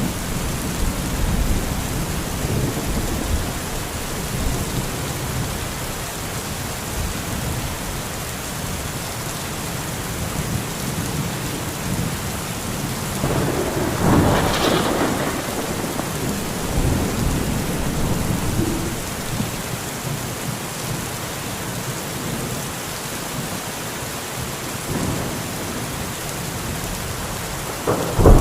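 Thunderstorm: steady rain with low rolling thunder. A louder peal of thunder swells up about halfway through, and another sharp one hits right at the end.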